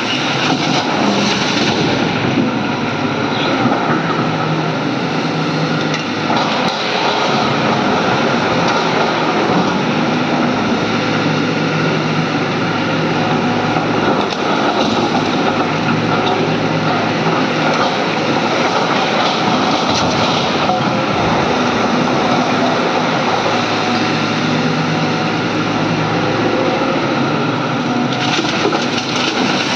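Hydraulic excavator's diesel engine running steadily under working load, with a few brief knocks near the start and the end.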